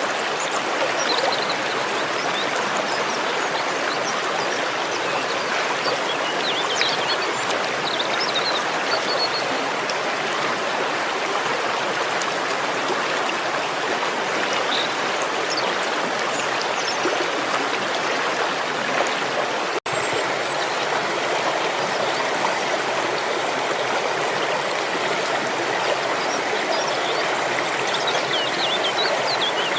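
Steady rushing of a flowing stream, with faint high chirps of wild birds scattered over it. The sound drops out for an instant about two-thirds of the way through.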